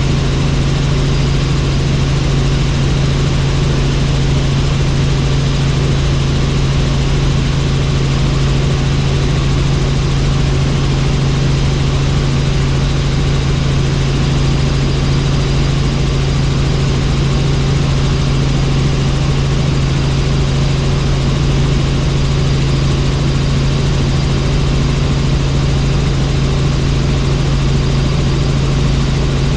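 Helicopter in flight: a steady, loud drone of rotor and engine with a strong low hum, holding even with no change in speed or pitch.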